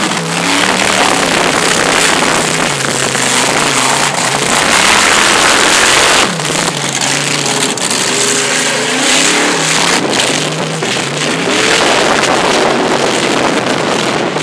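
Supercharged mud truck engine revving hard and surging up and down through a freestyle run, with a constant loud wash of noise as the truck churns through mud and water.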